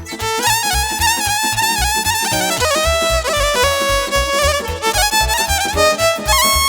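Instrumental Romanian sârbă folk dance music played live: a violin leads a fast, ornamented melody over a steady, quick bass beat.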